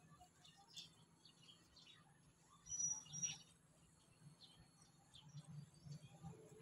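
Faint bird chirps, short and scattered, with two louder high chirps about three seconds in, over a low steady background hum.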